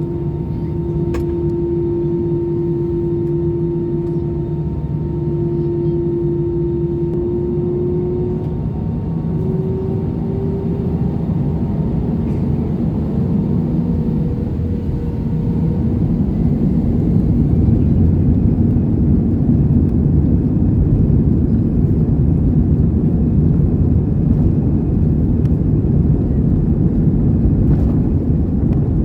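Airbus A320 engines heard from inside the cabin: a steady whine that rises in pitch, then a louder, dense rumble building from about halfway through, as the engines spool up for the takeoff roll.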